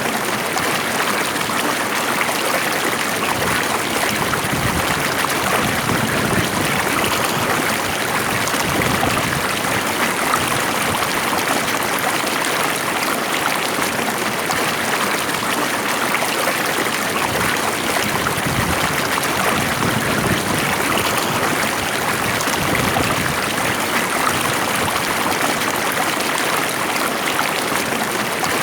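Stream water flowing steadily over stones, an even rushing with a light trickle and no change.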